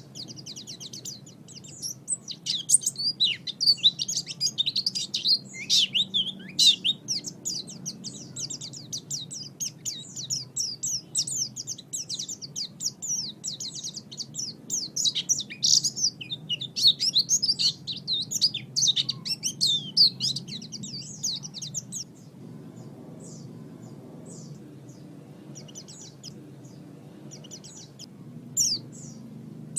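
Pleci (white-eye) singing a fast, dense, high twittering song that thins to scattered chirps about three-quarters of the way through, over a faint low steady hum.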